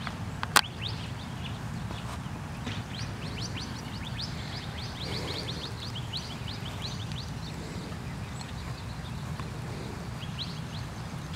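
Small birds chirping in quick series of short, falling notes over a steady low rumble, with a sharp click about half a second in.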